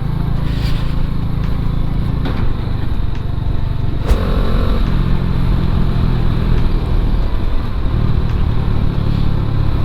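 Bajaj Dominar 400's single-cylinder engine running steadily while the motorcycle is ridden along the road, with a brief higher tone about four seconds in.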